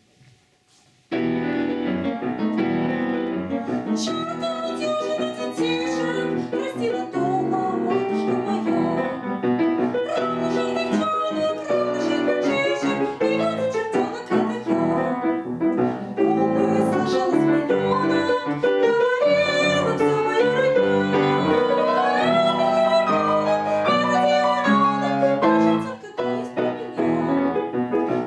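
Piano starts about a second in and plays the accompaniment to an operetta song.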